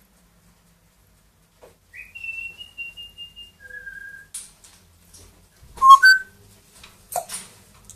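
Pet parrot whistling: a long steady high whistle that slides up at its start, then a shorter, lower note. About six seconds in comes a short, loud squawk-like call, with another brief call just after.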